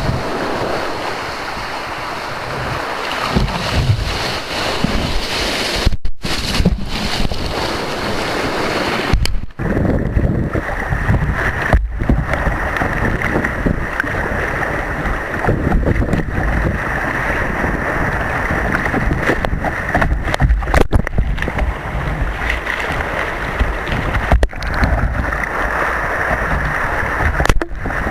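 Breaking surf and wind buffeting the microphone, a loud rough rush with heavy low rumble; the sound cuts out briefly several times.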